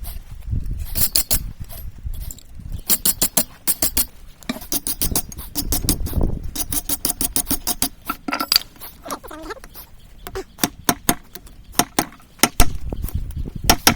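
Hammer blows on hot steel at the anvil as a railroad spike is forged, coming in quick runs of sharp strikes with short pauses between them.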